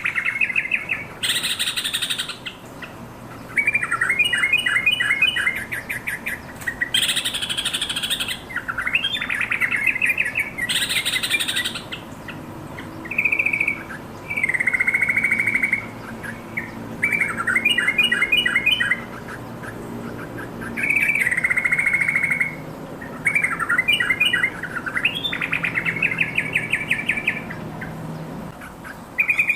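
Yellow-vented bulbul singing: a run of short, bubbly, warbling phrases, one every second or two, with brief pauses between them.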